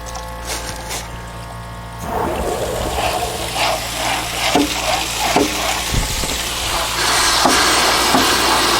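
Vinegar and water gushing and gurgling out of a water heater's open drain while compressed air is blown into the tank from below, flushing out lime scale. The gushing starts about two seconds in and gets louder and more hissing near the end.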